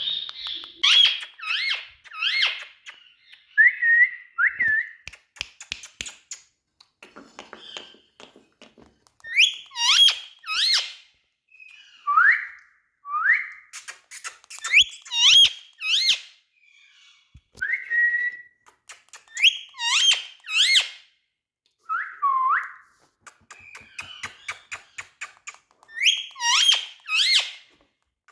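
Indian ringneck parrot calling with shrill whistled notes, mostly in quick groups of two or three. Single drawn-out sliding whistles come in between, and there are short pauses.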